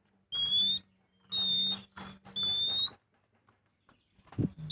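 Oriental magpie-robin singing: three long, clear whistled notes about a second apart, each rising slightly in pitch. A low thump comes near the end.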